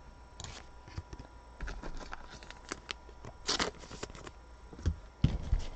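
Trading cards being handled and sorted by hand: light slides, flicks and rustles, with one louder scrape about three and a half seconds in and a couple of dull knocks near the end.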